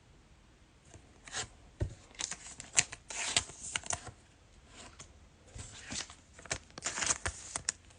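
Trading cards being handled and shuffled: quick dry rustles and flicks as the cards slide and rub against each other, in short spells from about a second in to near the end.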